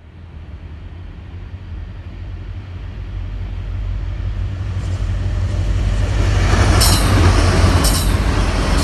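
Freight train approaching, its low rumble growing steadily louder. Near the end, two sharp clacks about a second apart as the wheels strike a rail joint.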